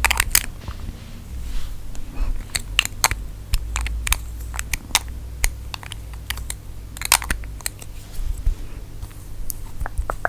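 Close-miked ASMR trigger sounds: fingernails tapping and scratching on objects, giving irregular sharp clicks and crackles, a few a second.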